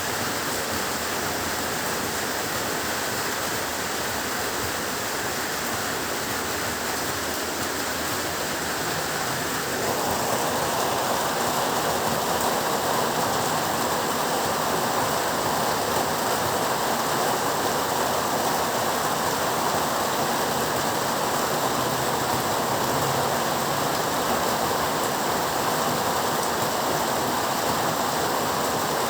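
Heavy rain falling as a steady, dense hiss. About ten seconds in it suddenly gets a little louder and fuller, then holds steady.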